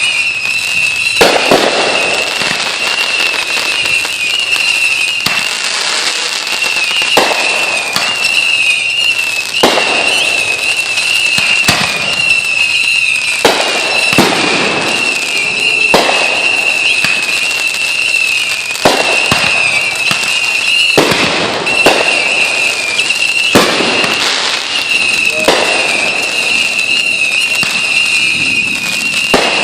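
Fireworks exploding in a steady series of loud bangs, one every second or two, each trailing off in a crackling rumble. A steady, wavering high-pitched tone runs beneath the bangs throughout.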